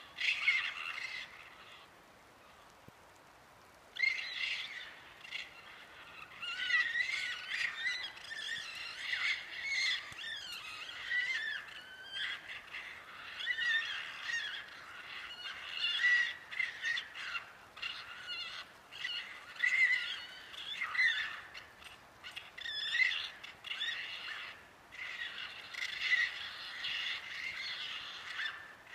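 A chorus of many animals calling together: high, wavering, overlapping cries that rise and fall in pitch. A short burst comes at the start, then a brief lull, then the calling builds again and carries on almost without a break.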